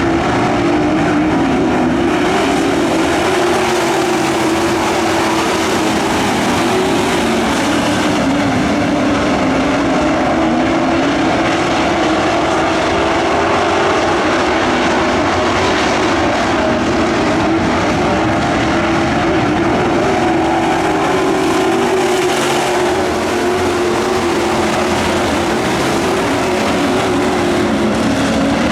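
Pack of dirt-track pro trucks racing, several engines running hard at once, their pitch rising and falling as they go around the oval.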